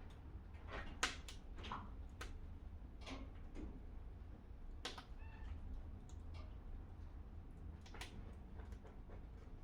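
Wood fire in a fireplace crackling, with irregular sharp snaps and pops. A house cat gives a short meow about five seconds in.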